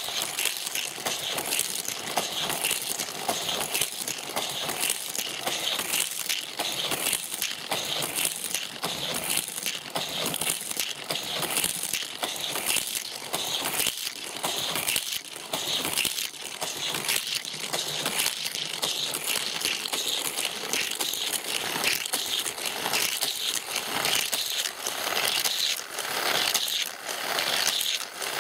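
Hot Wheels die-cast toy cars rolling along plastic Hot Wheels track: a continuous dense, irregular rattle of many small clicks.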